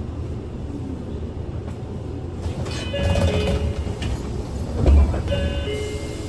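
Interior ride noise of a Kyoto City bus under way: a steady low engine and road rumble, with a heavy low thump about five seconds in. Two short clusters of high tones sound, about three seconds in and again near the end.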